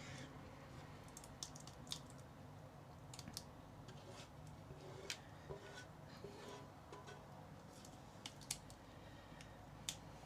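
Faint scattered clicks and taps of a ladle knocking against the pot and bowl as thick soup is scooped out slowly.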